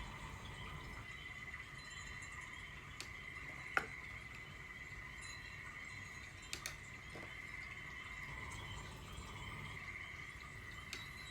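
Steady chorus of night insects, a continuous high chirring, with a few sharp clicks, the loudest about four seconds in.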